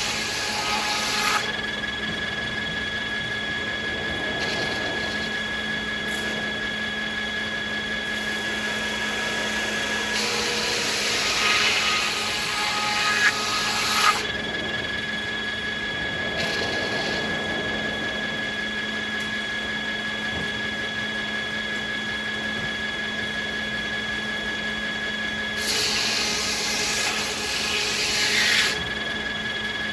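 Sawmill saws running steadily with a constant hum, cutting American beech three times: near the start, from about 10 to 14 seconds, and from about 26 to 29 seconds, each cut a louder rasping stretch over the hum.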